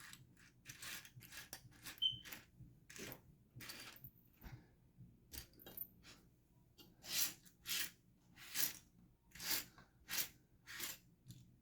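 Hands sifting through a pile of loose plastic building bricks, with small clicks and rustles. From about seven seconds in come six louder, evenly spaced swishes, roughly one every 0.7 seconds, as the pile is pushed and stirred.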